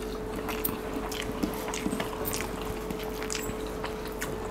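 A person chewing a mouthful of rice and chicken curry with small wet smacks and clicks of the mouth, irregular and close up, picked up by a lapel microphone on the chest.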